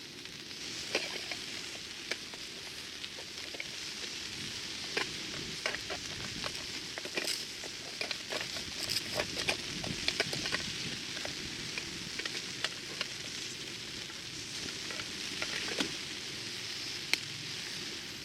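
Wood campfire crackling: irregular sharp pops and snaps over a steady hiss, thickest around the middle.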